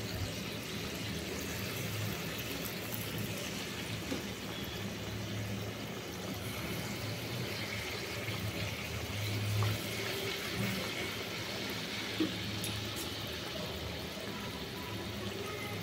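Malpua batter of maida and mashed banana deep-frying in hot oil in a pan: a steady sizzle and bubbling, with a low hum underneath.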